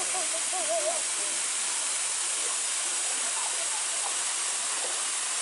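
Waterfall rushing steadily. In the first second a short, wavering pitched call sounds over it.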